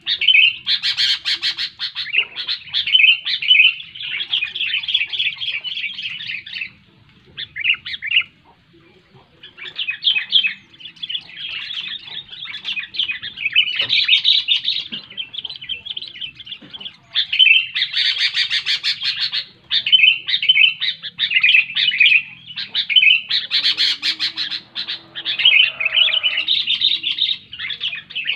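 Sooty-headed bulbul (kutilang) singing loudly: rapid, chattering phrases following one another almost without a break, with a short pause about a quarter of the way in.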